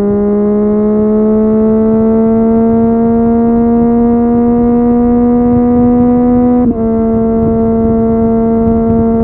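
Triumph Street Triple 765 RS inline-three engine running through an Akrapovic exhaust under load, its note rising slowly in pitch. About two-thirds through there is a brief break, after which the note holds steady a little lower: a gear change.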